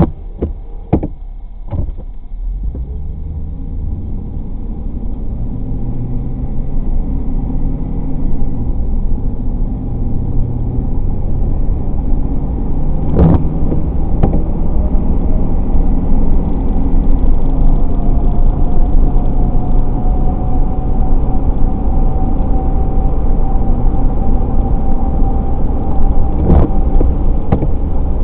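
Car pulling away and accelerating, its engine note rising and stepping up through the gears in the first several seconds. The engine and road noise then build to a steady cruise. A few sharp clicks come near the start, and a pair of knocks about halfway and again near the end.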